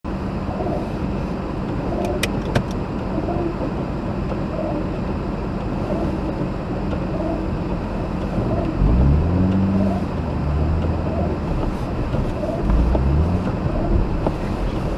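Mazda RX-8 on the move: steady road and tyre noise, with the rotary engine's note rising twice as it accelerates, a little past halfway and again near the end. A few sharp clicks come about two seconds in.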